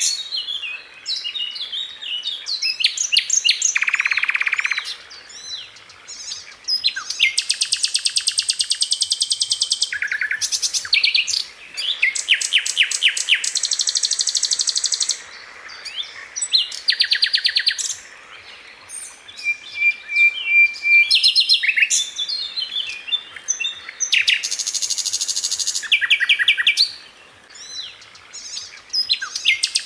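Sikatan Londo flycatcher song: bursts of very fast, tightly packed high-pitched notes and buzzy rattles, the rapid-fire 'tembakan' phrasing, broken by short pauses and quicker chirping phrases.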